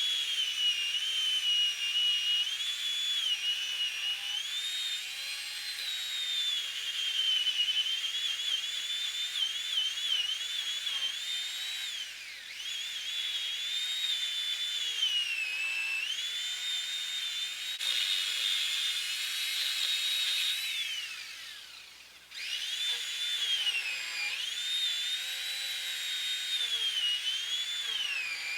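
A high, clear whistle-like tone moving up and down in pitch as a melody, gliding between notes. It fades out about 21 seconds in and comes back a second later.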